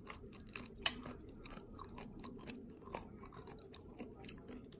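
Someone chewing raw abalone sashimi close to the microphone: a run of small, irregular mouth clicks and smacks, with one sharper click about a second in.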